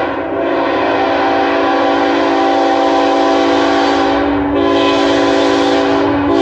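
Freight locomotive air horn sounding a held multi-note chord from a lead GE Evolution-series locomotive, broken briefly about four and a half seconds in and again near the end, over the low rumble of the passing train.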